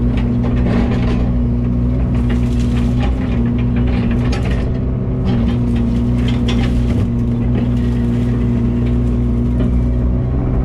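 Engine running steadily at constant speed, with clicking and rattling over it.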